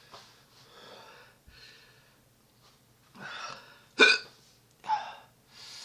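A man breathing hard through a throat burning from super-hot pepper extract, with a string of short breathy gasps and a sharp hiccup about four seconds in, then another just before five seconds.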